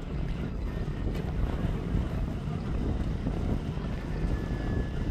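Wind buffeting the microphone: an irregular, gusting low rumble. A faint thin whistle comes in briefly near the end.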